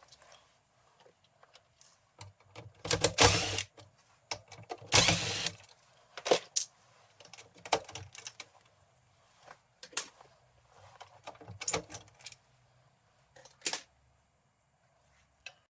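Irregular clicks and knocks of hard parts being handled, with two louder rasping noises of under a second each, about three and five seconds in.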